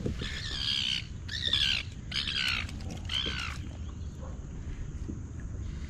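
A bird squawking: about four harsh calls in quick succession, stopping about three and a half seconds in.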